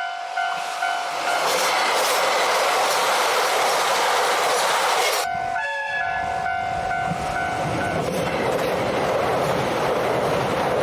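Diesel train passing a level crossing with a loud rumble and wheel clatter, the crossing alarm dinging and the train's horn sounding. About five seconds in there is an abrupt cut to another train: the crossing alarm rings again, a short horn blast sounds, and the train runs past.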